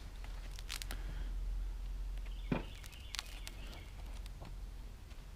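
Handling noise from an old book: a few short rustles and clicks, the loudest a thump about two and a half seconds in, over a low steady hum.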